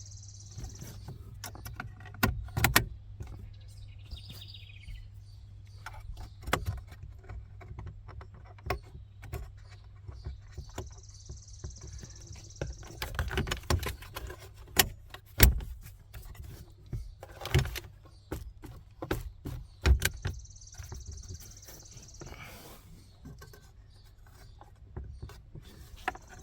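Plastic dash trim pieces being pushed and clipped back into place under a car's glove box area: scattered clicks and knocks at irregular intervals, a few of them sharp and loud.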